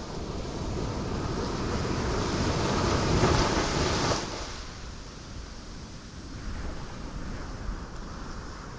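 Ocean waves breaking on rocks. The surf swells over the first few seconds, crashes loudest about three to four seconds in, then drops off suddenly to a softer wash.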